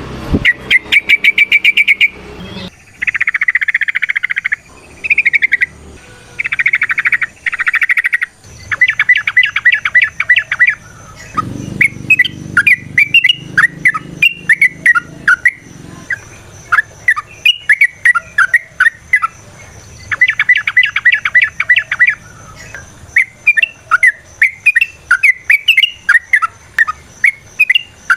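Yellow-vented bulbul singing loudly and without pause: runs of fast rattling chatter, each a second or two long, alternate with strings of quick, separate chirped notes.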